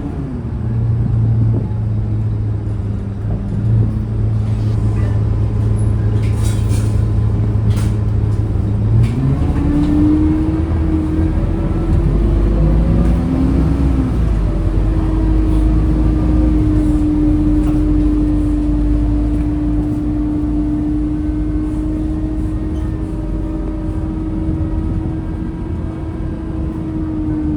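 Scania K230UB bus's five-cylinder diesel engine dropping to idle, idling for about eight seconds, then pulling away and holding a steady note under way before easing off near the end. A few short clicks come about six to eight seconds in.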